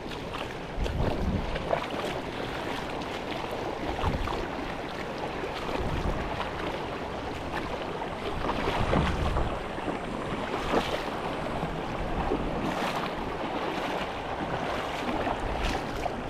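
Wind gusting on the microphone over a steady wash of moving water, with irregular low rumbles.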